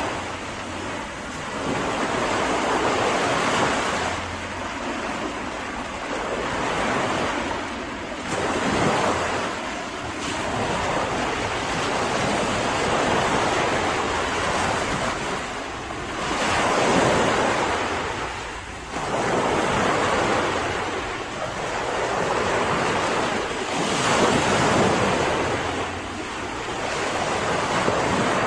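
Mediterranean sea waves breaking and washing onto a beach, the surf swelling and easing every few seconds.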